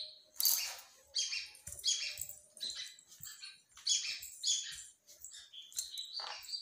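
Birds chirping: a steady run of short, high-pitched chirps, about two a second.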